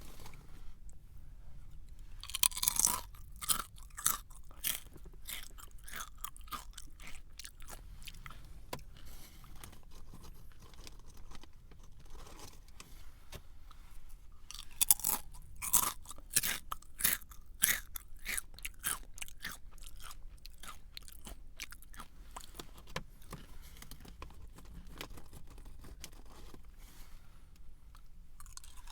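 A person biting into and chewing a crunchy snack: a loud crunching bite about two and a half seconds in, a run of crisp chewing crunches, then another loud cluster of crunches about fifteen seconds in followed by more chewing.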